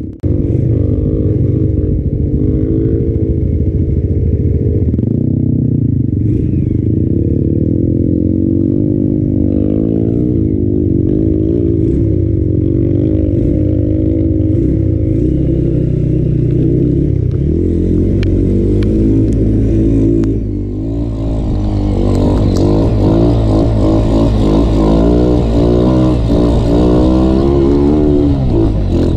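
Dirt bike engine ridden along a rough trail, its revs rising and falling with the throttle, with scattered rattles and knocks from the bumpy ground. About twenty seconds in it drops off briefly, then pulls harder at higher revs.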